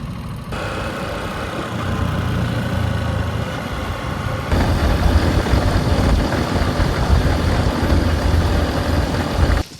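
Honda XR150L's small air-cooled single-cylinder engine running under way. It steps up in loudness about half a second in and again around four and a half seconds, then cuts off suddenly near the end.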